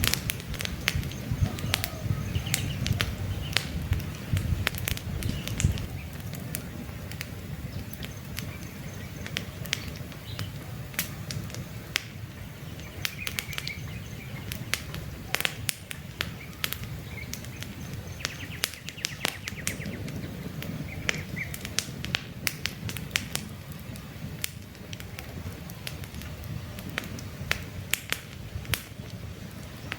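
Wood campfire crackling, with frequent sharp pops over a low rumble of burning logs that eases after the first few seconds; birds chirp faintly in the background.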